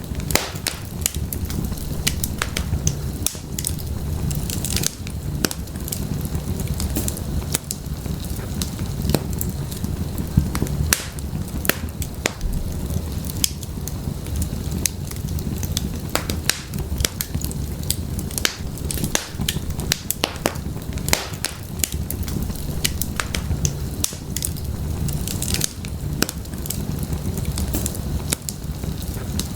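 Wood fire burning in a fireplace: a steady low rumble of the flames with many sharp crackles and pops scattered irregularly throughout.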